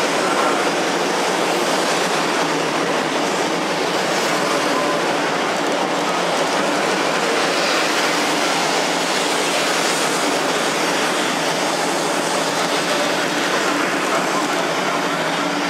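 A 500 Series Shinkansen train running past along the station platform: a steady loud rush of wheel and air noise from the passing cars, easing slightly near the end.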